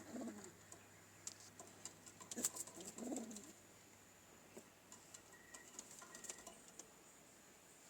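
A pigeon cooing once, about three seconds in, with scattered light clicks and taps.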